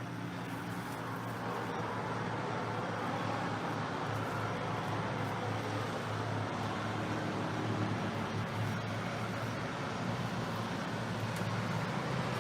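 Steady motor-vehicle noise: a low engine hum with an even rushing sound, swelling a little over the first couple of seconds and then holding steady.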